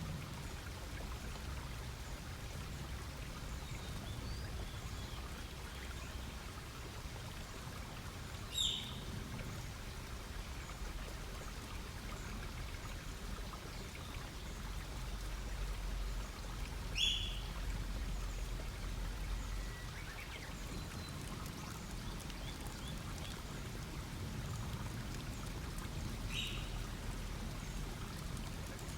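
Wood campfire crackling and hissing steadily, with a bird giving a short, sharp call three times, about every nine seconds.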